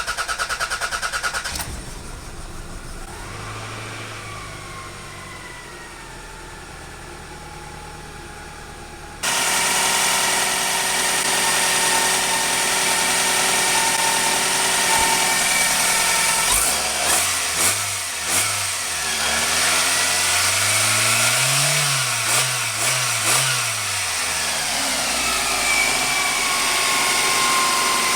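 Toyota Camry 2.2-litre four-cylinder engine starting, settling to idle, then revved up and down several times about two-thirds of the way in. It is running with its faulty cylinder-1 fuel injector replaced.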